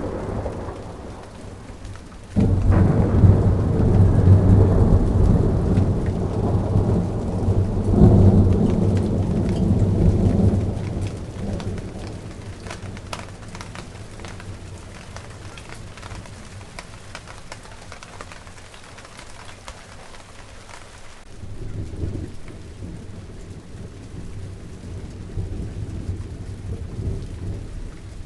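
Steady rain falling on garden plants, with a loud roll of thunder that starts suddenly a couple of seconds in, swells twice and fades after about eight seconds; a fainter rumble of thunder comes later on.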